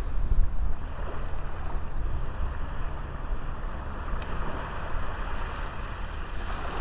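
Sea waves washing onto a small beach in a steady wash of surf, with wind buffeting the microphone and adding a low rumble.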